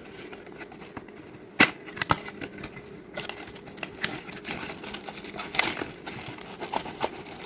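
A product's cardboard box and packaging being handled and opened: scattered light clicks and rustling, with a sharp tap about one and a half seconds in.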